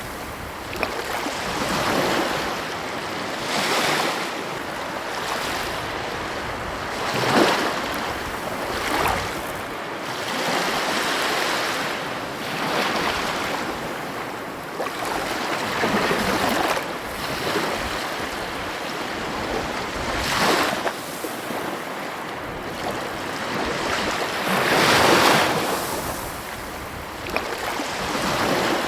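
Ocean waves breaking on a beach, a continuous wash of surf that swells with each breaker every few seconds, with some wind.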